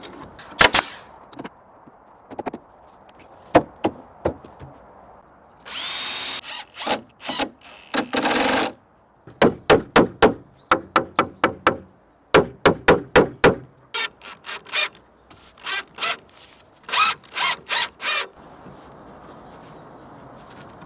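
Power drill working wood in many short trigger bursts, some in quick runs of about four a second, with two longer runs of about a second each around six and eight seconds in.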